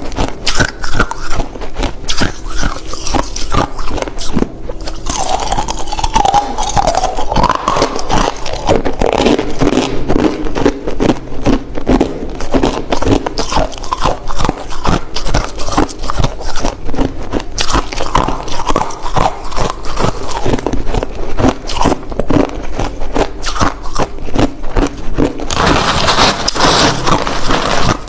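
Clear, hard crushed ice being bitten and chewed close to the microphone: a dense, continuous run of loud cracks and crunches. A harsher, brighter crunching comes near the end.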